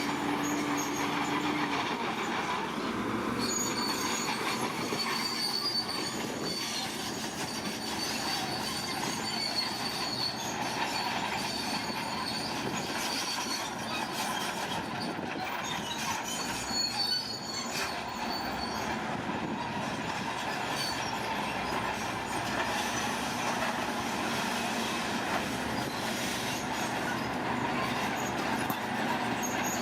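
Tracked heavy machine, such as a bulldozer, running steadily as its steel tracks squeal and clank, with a high squeal through the first half.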